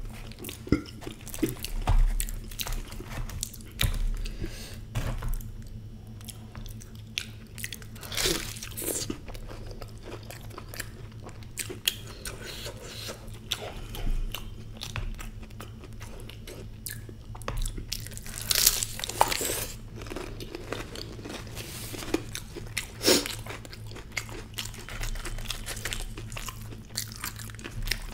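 Close-miked chewing and crunching of fried samosa dipped in spiced potato curry, with louder crunchy bites about eight, nineteen and twenty-three seconds in. A steady low hum runs underneath.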